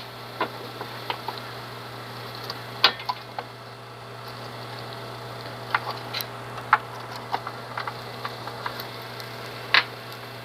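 Scattered light clicks and knocks as the 10 mL sample tube plate is handled and set into a lab microwave reactor, over a steady low hum; the sharpest clicks come about three seconds in and near the end.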